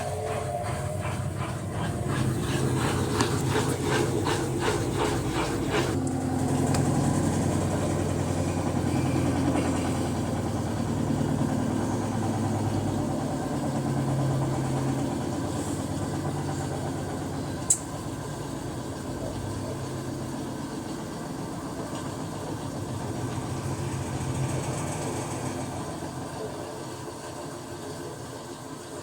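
Electrolux LTE12 top-loading washing machine running in its spin cycle: a rapid, even knocking for the first several seconds, then a steady low hum, with a single sharp click about two-thirds of the way through.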